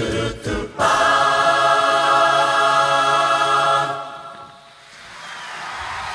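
An a cappella vocal group singing, with a few short percussive hits at first, then holding one long sustained chord that fades out about four seconds in. A wash of noise then rises steadily near the end.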